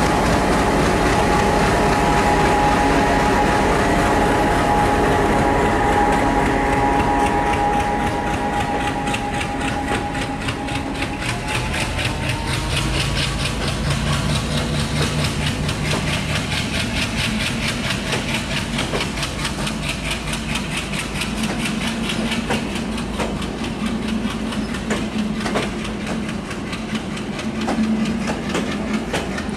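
A diesel locomotive's engine runs with a steady drone as it pulls a passenger train out of the station. After about ten seconds the coaches take over, rolling past with a fast, regular clickety-clack of wheels over rail joints. A low hum passes by around the time the power car's generator goes past.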